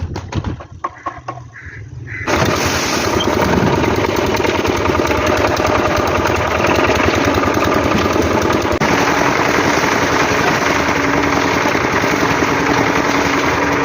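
A few scattered knocks, then about two seconds in a loud machine starts abruptly and runs steadily with a dense mechanical noise.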